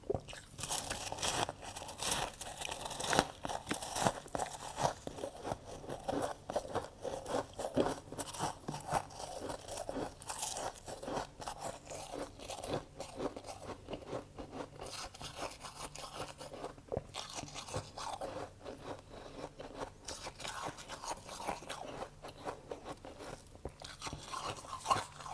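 Freezer frost being bitten and chewed, with dense, irregular crunching close to the microphone.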